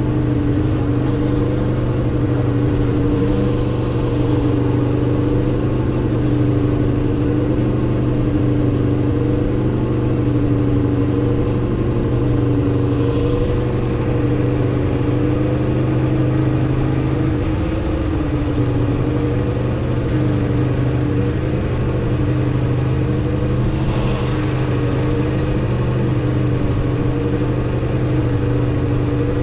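2016 Aprilia RSV4 RR's V4 engine through its stock exhaust, cruising at a fairly steady engine speed. The revs dip briefly and come back up about seventeen seconds in.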